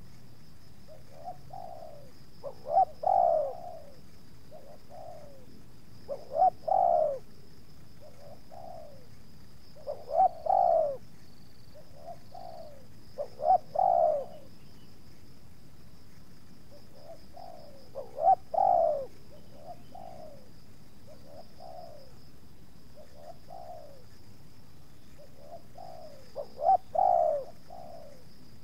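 Spotted dove cooing: six loud phrases of a few coos each, repeated every three to four seconds, with softer single coos in between.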